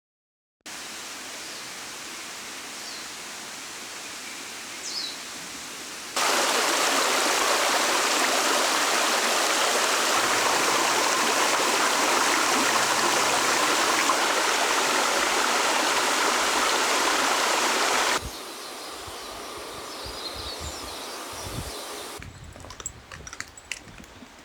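A steady rush of running water that starts abruptly about six seconds in and stops abruptly about twelve seconds later, set between quieter stretches of outdoor ambience with a few short bird chirps; light clicks near the end.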